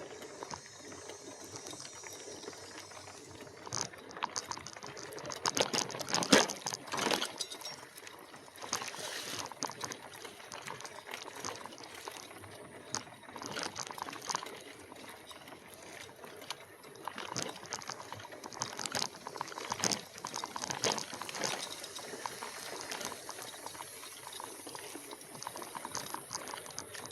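E-bike rolling along a trail: an irregular crackling and rattling of tyre and ride noise, loudest about six seconds in.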